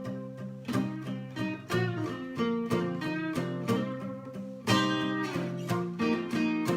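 Instrumental guitar solo break in a minor-key song, played over a steadily strummed acoustic rhythm guitar, with a hard strum nearly five seconds in.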